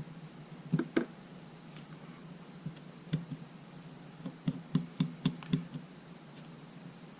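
Light, scattered clicks and taps of small camera parts and a tool being handled on a workbench: a couple about a second in, then a quick run of them a few seconds later.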